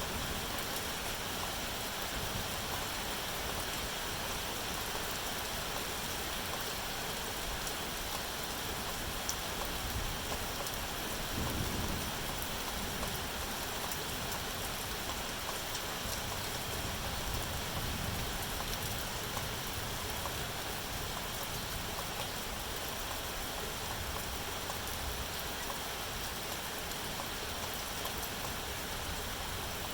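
Steady, heavy rain falling and pattering on surfaces, with a couple of brief low rumbles about halfway through.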